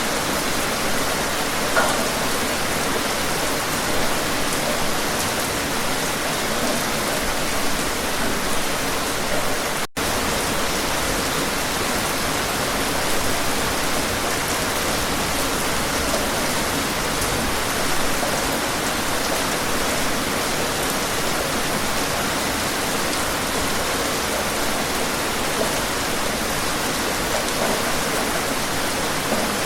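Steady rain, an even hiss of many drops with an occasional louder drop hit, broken by a split-second gap about ten seconds in.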